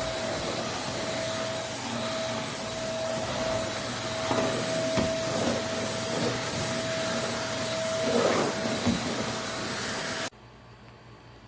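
Eureka Blaze stick vacuum running, a steady high whine over the suction rush, with a few knocks and rattles in the middle and near the end. It stops abruptly about ten seconds in.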